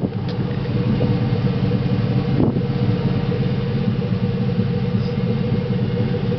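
A 2005 Dodge Ram 1500 Rumble Bee's 5.7-litre Hemi V8 idling steadily.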